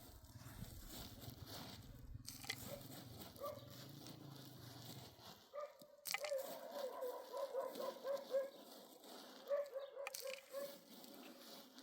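An animal calling: a wavering, pitched call repeated several times from about six seconds in, after a low rumbling noise in the first half.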